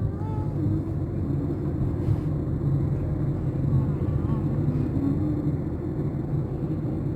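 Steady low rumble of a vehicle, with faint voices in the background.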